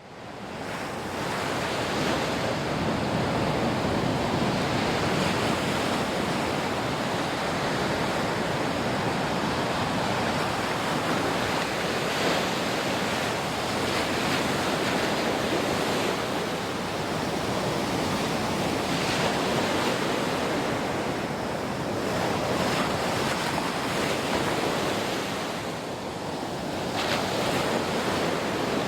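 Ocean surf: a continuous rush of waves washing ashore, rising and falling in slow swells, fading in at the start.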